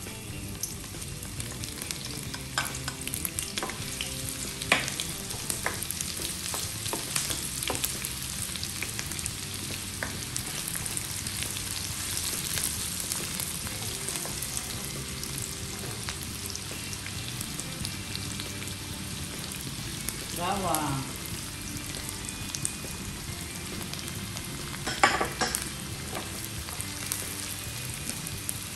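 Diced onion sizzling in hot cooking oil in a nonstick wok, stirred with a plastic ladle that clicks and scrapes against the pan. A short wavering, falling tone about twenty seconds in, and a sharp clatter about twenty-five seconds in.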